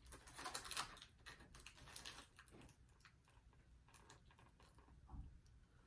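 Faint chewing with scattered small clicks and smacks as a person eats chicken wings, a little louder in the first second.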